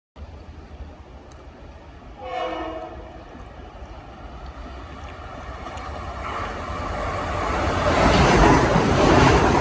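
A Metro-North train sounds one short horn blast about two seconds in, then approaches, its rumble growing steadily louder until it is passing close by near the end.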